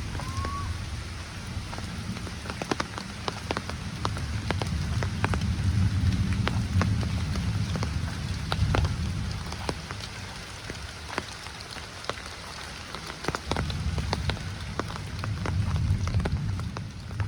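Heavy rain falling steadily, with many single large drops striking close by as sharp ticks, and a low rumble that swells and eases twice.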